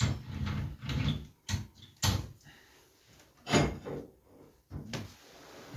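A few irregular knocks and clatters, most likely the door of a just-lit Vesuvius stove-fireplace being shut and handled. The sharpest comes about two seconds in and the loudest at about three and a half.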